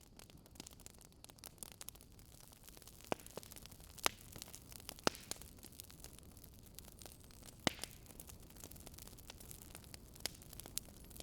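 Campfire crackling: irregular sharp pops and snaps of burning wood over a steady low hiss.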